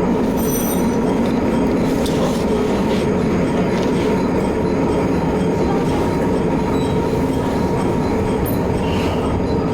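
A diesel railcar running on the line, heard from inside the carriage: a steady rumble of wheels on rail and the running engine, with a few faint clicks.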